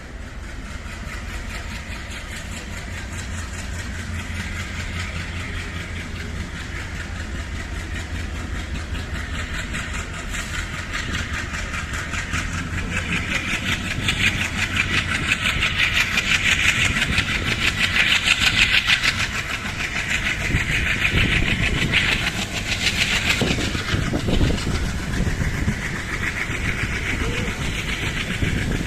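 Passenger train running along the track, heard from on board: a steady rumble and rattle of wheels and carriage that grows louder from about halfway through.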